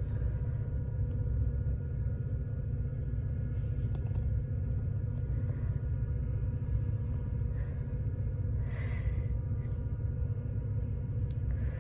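Steady low rumble with a constant droning hum from an idling diesel train locomotive.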